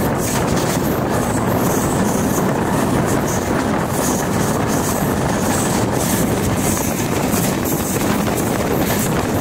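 Passenger train coaches running at speed, heard from outside an open door: a steady rumble of steel wheels on the rails with irregular clicks.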